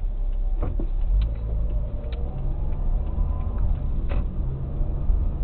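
Car running, a steady low engine and road rumble with a few faint clicks.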